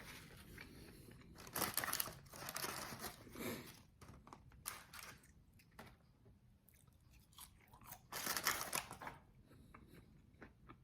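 Close-miked biting and chewing of crispy, extra-well-done fried chicken wings. There are two loud crunchy bouts, one starting about one and a half seconds in and one about eight seconds in, with quieter wet chewing between them.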